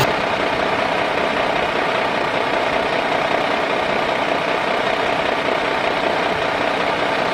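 Radio-controlled truck running steadily, an even mechanical hum with a faint steady tone and no change in speed.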